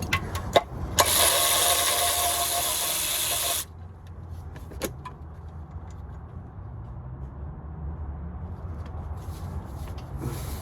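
An impact wrench hammers on a tight transmission bolt for about two and a half seconds, then stops suddenly. A couple of metal clicks come just before it. A low steady rumble runs underneath.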